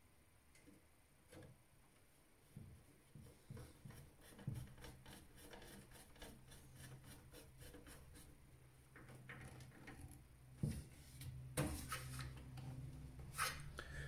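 Faint handling noises inside a desktop PC case: scattered small clicks, taps and rubbing as cables and parts are worked into place, growing louder and busier near the end.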